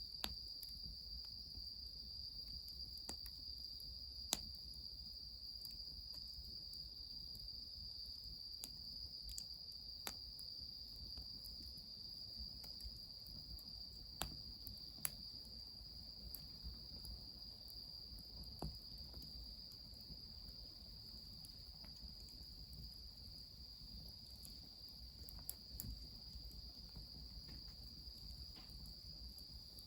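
Insects trilling steadily in one unbroken high tone, with scattered sharp crackles and pops from the wood fire, a few louder than the rest.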